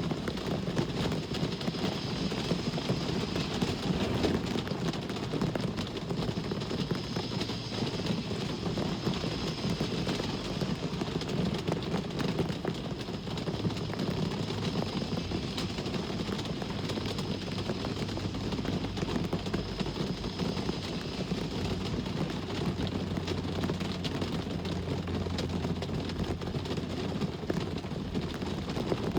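Steady rain with a constant low traffic rumble underneath. A low engine-like hum grows stronger in the second half.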